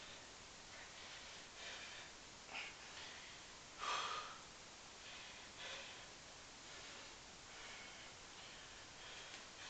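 A man's hard breathing from the exertion of a long set of pistol squats: short, sharp exhalations about every second, one louder about four seconds in.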